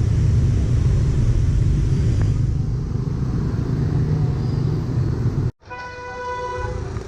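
Street traffic with a heavy, steady low rumble. It cuts off suddenly, and a horn then sounds once for about a second over quieter street noise.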